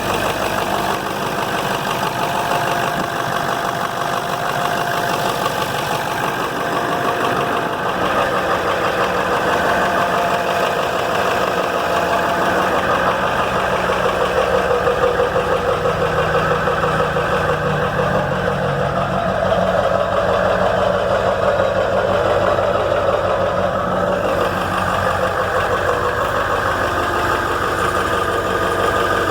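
1997 Ford Powerstroke 7.3-litre turbodiesel V8 idling steadily, with a fast, even rhythm, about two minutes after a cold start following weeks of sitting in freezing weather.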